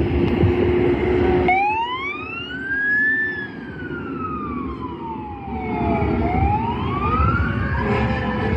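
Fire engine siren in a slow wail: it starts about a second and a half in, its pitch rising for about two seconds, falling for about three, then rising again. Before it comes in there is loud rumbling noise from the truck.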